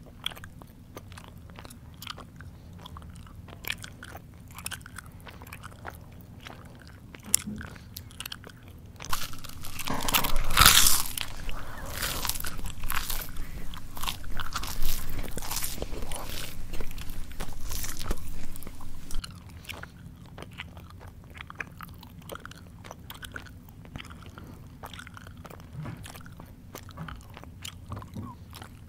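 Close-miked mouth chewing of crunchy food, a steady run of small crackles and wet clicks. About a third of the way in, a louder stretch of crunching lasts about ten seconds, then it goes back to quieter chewing.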